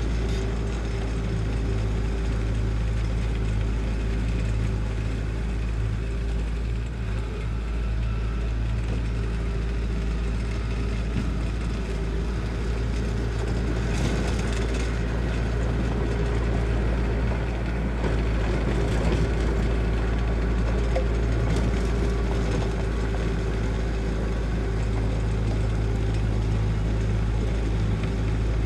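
Diesel engine of heavy construction equipment running steadily, with a low, even drone throughout.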